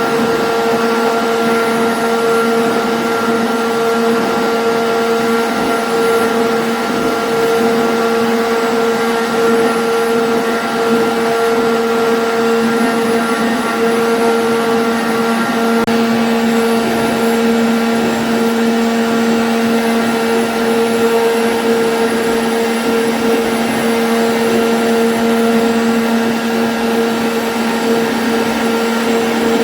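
CNC router spindle running steadily while cutting a 2D jali pattern: a constant pitched whine over machining noise, with no break.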